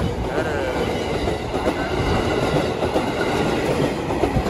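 Ex-JR 205 series KRL electric commuter train passing at close range, its wheels running steadily over the rails.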